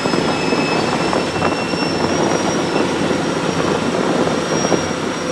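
Steady, loud running noise of a vehicle or heavy machine, with a faint high whine over it.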